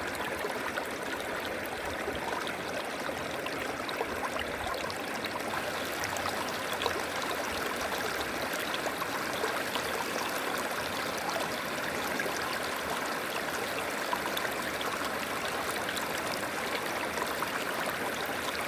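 A river or stream running over rocks, a steady rush of water flowing with many small splashes and trickles, even and unbroken throughout.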